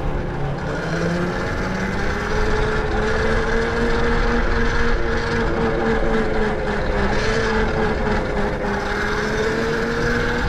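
Tuttio electric dirt bike riding along: its motor whine rises and dips with speed over the noise of a loose drive chain that is loud and needs tightening.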